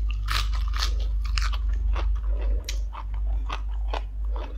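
Close-miked crunchy biting and chewing of a raw green vegetable: a quick, irregular run of crisp crunches, over a steady low hum.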